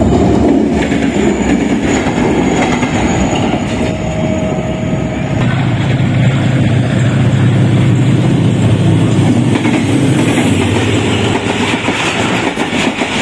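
Diesel-hauled passenger trains passing close by: the locomotive's engine runs and the coaches' wheels clatter over the rail joints. The sound changes about five seconds in, where a different train takes over.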